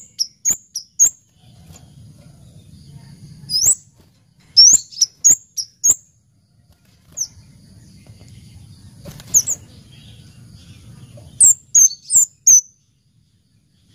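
Scarlet-headed flowerpecker calling: short, high-pitched chips, some sweeping upward, given in quick clusters of three to six notes with pauses of a second or more between.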